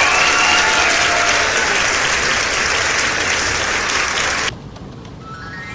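Metro train rolling and slowing, a loud steady rush with a falling electric-motor whine that fades out within the first two seconds. The rush cuts off suddenly about four and a half seconds in, and a stepped rising whine starts near the end.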